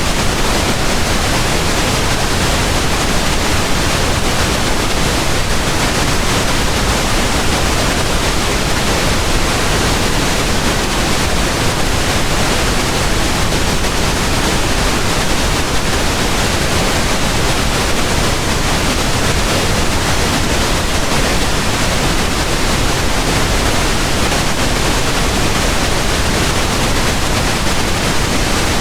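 Steady pink noise: an even, unchanging hiss spread across all pitches, unbroken throughout.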